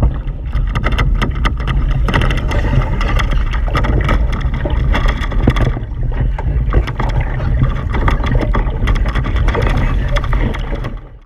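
Wind buffeting the microphone over water rushing and splashing along the hulls of a Hobie 16 catamaran under sail, with many sharp crackles and splashes; it cuts off abruptly near the end.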